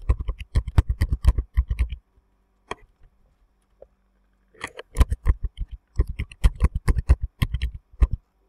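Computer keyboard typing in two quick runs of keystrokes, with a pause of about two and a half seconds and a couple of single taps between them.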